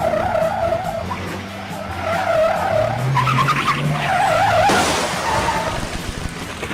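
Heavy truck under load with a low engine drone, and squealing that wavers in pitch in three stretches, from tyres or brakes. A short hiss sounds about five seconds in.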